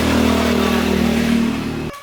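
Restored air compressor running with a loud, steady mechanical drone; it stops abruptly just before the end.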